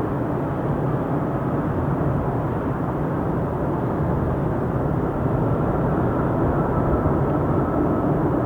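Boeing 777 jet engines running: a steady rumble with a faint whine on top, growing a little louder about halfway through.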